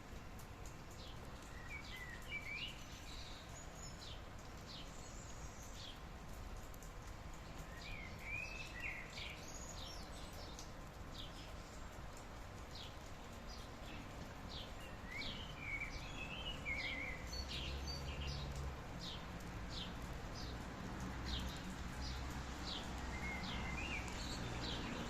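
Wild birds calling repeatedly, short high chirps and a few warbled phrases, over a steady soft hiss of rain. A low rumble joins in about two-thirds of the way through.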